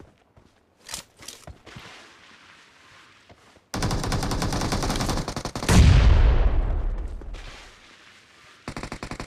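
Video game gunfire: a single shot, a few clicks, then a burst of automatic fire lasting about two seconds that ends in a loud, deep boom fading over about two seconds, and another short burst of automatic fire near the end.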